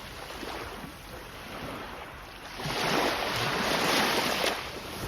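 Sea waves washing onto the shore, a steady hiss of surf. One wave swells up about two and a half seconds in and draws back shortly before the end.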